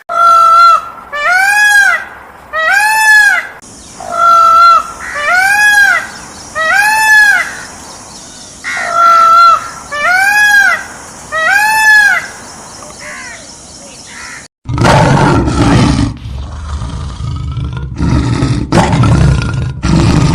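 Peacock calling over and over, loud and harsh, each call rising then falling in pitch, about one a second for the first twelve seconds. From about fifteen seconds in, a loud rough rumbling noise takes over.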